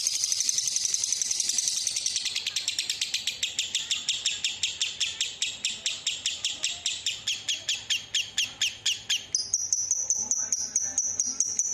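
Lovebird singing a long, unbroken chattering song (the 'ngekek' prized in contests). It opens as a dense high trill, slows into a rapid string of sharp chirps at about six a second, and switches near the end to a higher, faster chatter.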